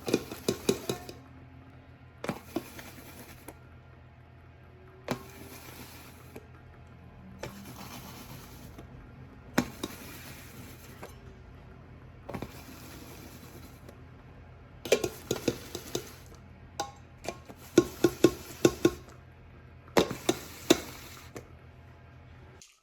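Kitchen utensils knocking, clinking and scraping against dishes in short repeated strokes, with soft background music. The sharpest clusters of knocks come in the second half.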